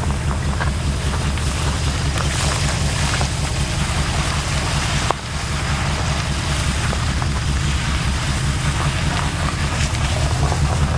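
1966 Ford F100 pickup's engine running steadily, a low rumble with wind noise on the microphone, briefly broken about halfway through.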